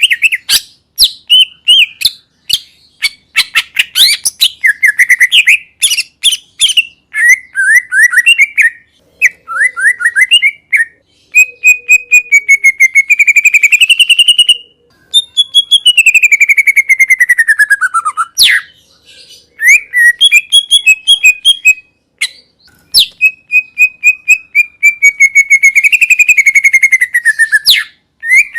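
Green leafbird (cucak ijo) singing a loud, varied song of quick chirps and rapid trills, with long sweeping phrases, one falling steadily in pitch about halfway through.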